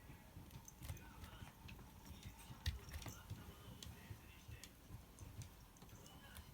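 A cat sharpening its claws: faint, irregular scratchy ticks and clicks as the claws catch and pull.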